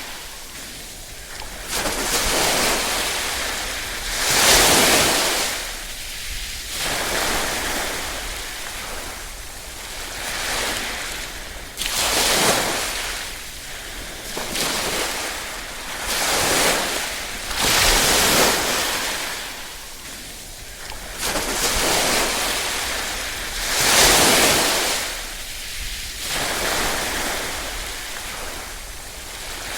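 Small waves washing ashore and drawing back, a hissing wash that swells and fades every few seconds, with a few stronger surges.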